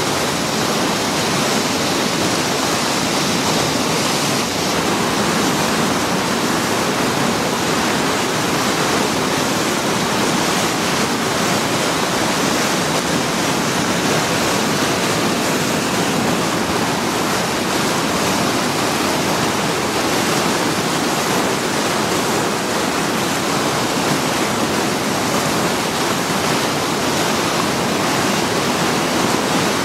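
Whitewater rapids of a river running in high flow, a loud steady rush of water with no let-up.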